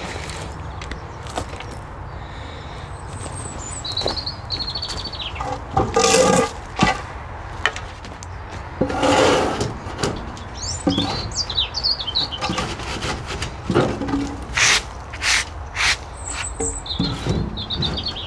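Knocks and scrapes from a glass greenhouse frame being shoved and shifted on its base, the loudest about six seconds in and a longer scrape around nine seconds, with more knocks near the end. Small birds chirp briefly now and then.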